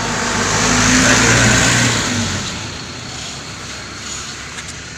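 A motor vehicle passing by, its engine and tyre noise swelling to a peak about a second in and fading away by the middle.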